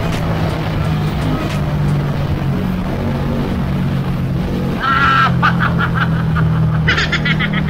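Ducati Scrambler 800's L-twin engine running at a steady cruise, with rushing noise from riding. A higher, rapidly pulsing sound joins about five seconds in and again near the end.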